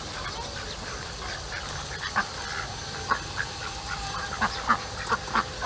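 Ducks quacking as they are fed bread, in many short separate calls over a steady background hiss.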